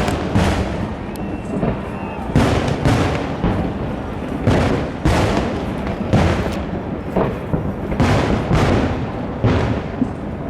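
Fireworks display: aerial shells bursting in a rapid string of booms, about one or two a second, with each bang trailing off in echo.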